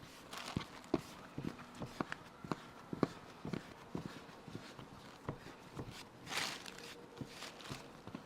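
Irregular soft knocks and taps, roughly two a second, with a short rustling swish about six seconds in.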